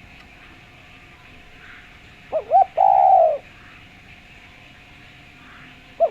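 Spotted dove (derkuku) calling with a clear voice: one phrase about two seconds in, two short notes then a longer drawn-out coo, and the next phrase starting right at the end.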